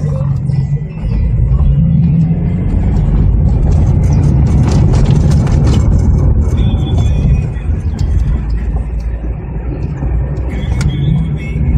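Chevrolet Monza SL/E's four-cylinder engine running as the car is driven: a steady low engine and road noise, louder for a couple of seconds in the middle.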